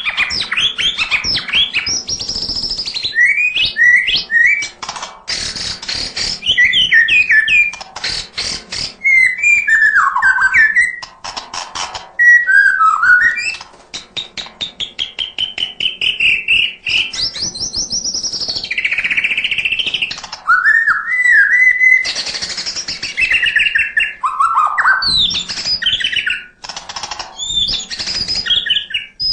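White-rumped shama (murai batu) singing a long, varied song with no pauses, full of mimicked calls: whistled phrases and glides mixed with fast rattling chatters.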